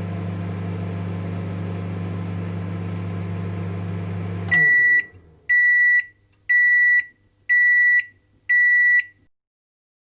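Microwave oven running with a steady hum that stops about four and a half seconds in. Five loud, high beeps follow, about a second apart, signalling that the heating cycle is finished.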